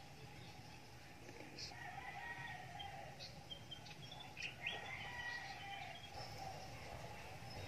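Faint outdoor ambience of birds calling: scattered short chirps and calls, busiest between about three and six seconds in, over a low steady background noise.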